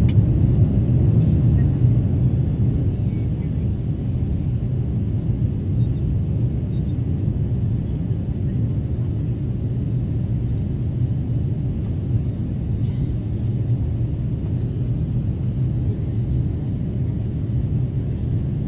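Airbus A350-900 with Rolls-Royce Trent XWB engines, a steady low rumble that eases slightly about two seconds in and then holds even.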